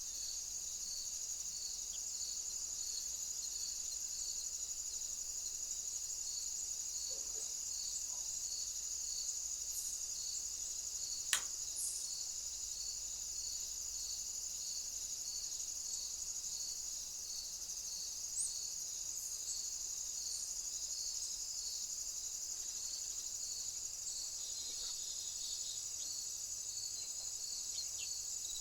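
Night insect chorus of crickets: a steady high-pitched trilling drone with a regular chirp about three times every two seconds. A single sharp click about eleven seconds in.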